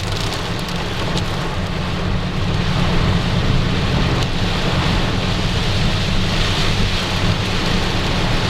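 Heavy rain and hail pelting a moving car, heard from inside the cabin as a dense, steady patter with a few sharp ticks, over the low rumble of the vehicle on the road.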